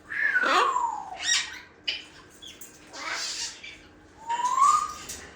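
Parrot calling: a long falling whistle, two short raspy calls, then a short rising whistle near the end.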